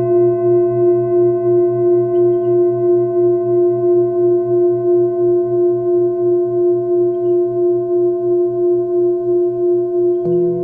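Singing bowls ringing with a steady, wavering hum that pulses about four times a second; another bowl is struck about ten seconds in, adding a lower tone. A few faint bird chirps come through now and then.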